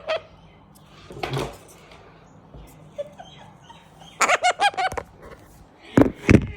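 Cockatoo calling: a quick run of short squawks about four seconds in, then two louder calls near the end.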